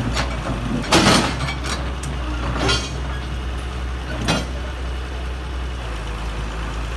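Heavy machinery engine running with a steady low rumble, broken by three short, harsh noisy bursts: the first, about a second in, is the loudest, and the others come near three and four seconds in.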